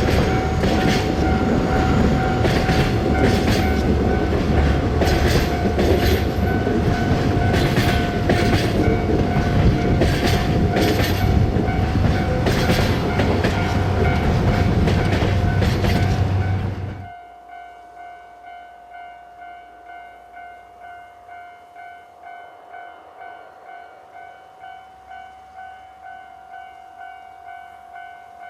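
Train running past, its wheels clacking over rail joints, with a steady ringing tone throughout. About two-thirds of the way in the train noise cuts off suddenly, leaving only the ringing, which pulses about one and a half times a second like a level-crossing bell.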